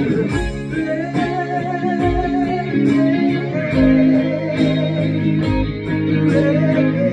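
Instrumental passage of a song: guitar playing sustained melodic notes over bass, with a steady low beat and no singing.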